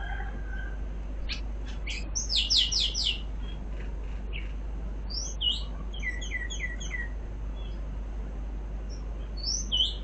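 Small birds chirping in short, high notes that slide downward: a quick run of about five about two seconds in, more scattered chirps between five and seven seconds, and a last pair near the end.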